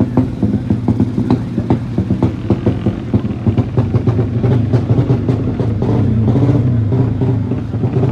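Racing motorcycle engine running at a low, steady speed with a deep hum and many sharp clicks through the first half. It swells slightly around six to seven seconds in.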